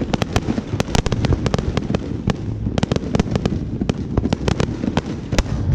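Fireworks going off in a dense barrage: a rapid, unbroken run of sharp cracks and bangs, several a second, over a continuous low rumble.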